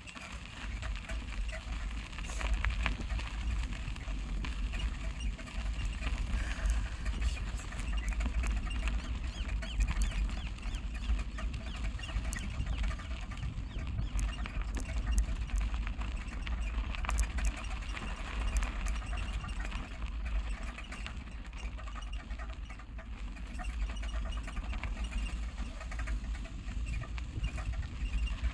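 Wind buffeting the microphone while riding a bicycle, a heavy rumble with the hiss of tyres on the path. Scattered light clicks and rattles from the bike run through it.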